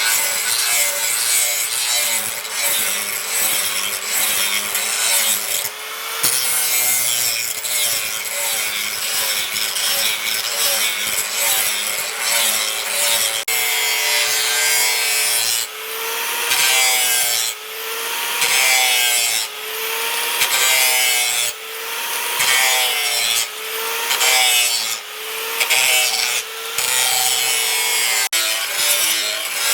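Rasping strokes of a tool working the steel of a leaf-spring knife blank. The sound is steady at first, then breaks into repeated strokes roughly once a second from about halfway through, with a wavering squeal under the rasp.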